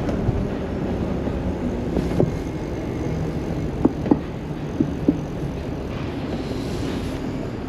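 Riding noise on an e-bike with knobbly off-road tyres moving through city traffic: a steady rush of wind and road noise with passing vehicles. A few short sharp knocks or squeaks come just before and about a second after the middle.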